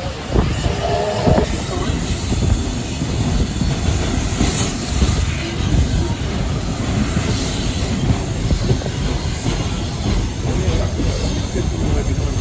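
Train hauled by steam locomotive 3801 running along the line, heard from aboard: a steady rumble of wheels on rail.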